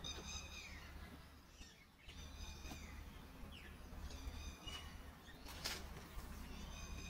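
A bird calling repeatedly, a short high call about every two seconds, over a low steady rumble. There is one sharp click about five and a half seconds in.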